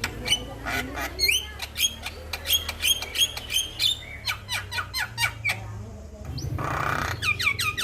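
Male Javan myna (jalak kebo) singing a rapid, varied run of sharp clicks and short whistled notes that slide up or down. A harsh, rasping call comes near the end, over a steady low hum.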